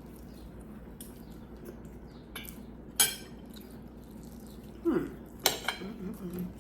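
Table eating sounds during a seafood boil meal: a few sharp clinks of cutlery against dishes, the loudest about three seconds in and another about five and a half seconds in. A short hum from one of the eaters near the end.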